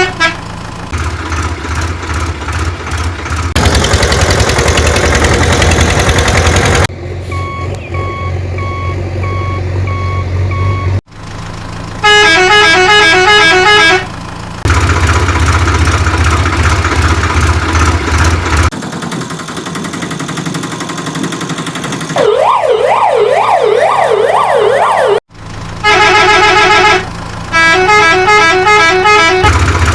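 A string of spliced vehicle sound effects: a low engine hum, a multi-tone musical horn playing short repeated tunes, and a rapid up-and-down wailing siren about 22 seconds in. The segments change abruptly, with brief dropouts between some of them.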